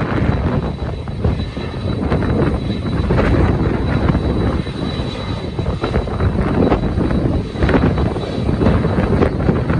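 Jet airliner's engines running loud and steady, mixed with gusty wind buffeting the microphone.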